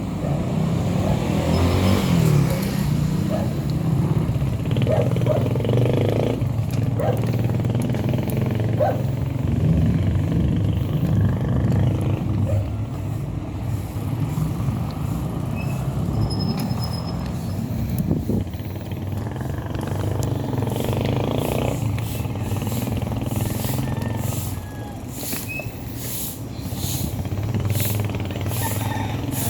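Motorcycle engine running steadily on the move, with road and traffic noise around it.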